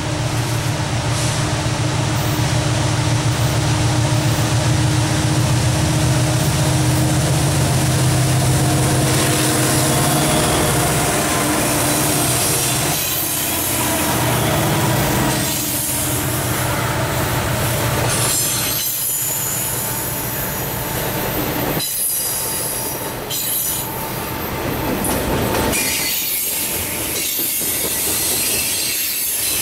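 A mixed freight train passing close by. For the first dozen seconds the diesel engines of its locomotives (EMD SD70ACe and SD70M-2 units and a GE ES44AC) give a deep steady drone. Then the freight cars roll past with high-pitched wheel squeal and clacking from the wheels.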